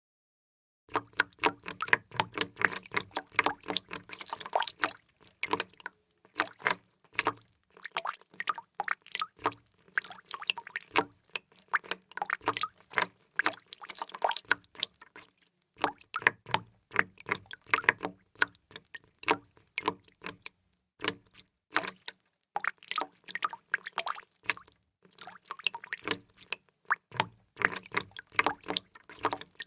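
Water dripping: many drops falling quickly and irregularly, several a second, starting about a second in with a few short pauses.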